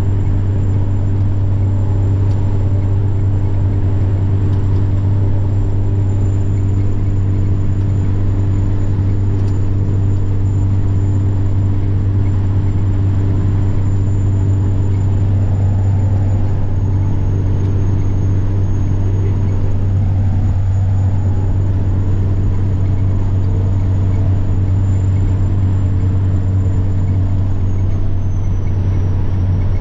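Semi-truck diesel engine droning steadily under way, with a thin, high turbocharger whine over it. The whine dips a little in pitch a little past halfway and again near the end.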